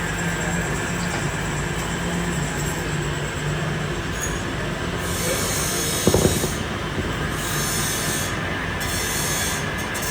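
Steady scraping, squealing noise of metal being machined, with a brief louder knock about six seconds in.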